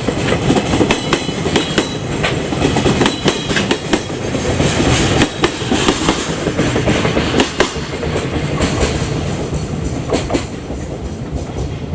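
A freight train's wagons rolling past on the track, with a steady stream of wheel clacks over the rail joints. A faint high squeal from the wheels sounds in the first few seconds.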